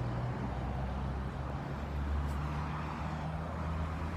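Steady low hum of a motor vehicle engine running, over road traffic noise.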